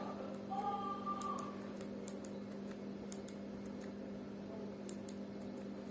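Faint scattered clicks and taps of small plastic parts being handled, over a steady low electrical hum.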